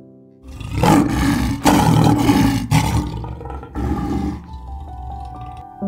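Male white lion roaring: about four loud, deep calls in a row, the later ones shorter, over soft piano music.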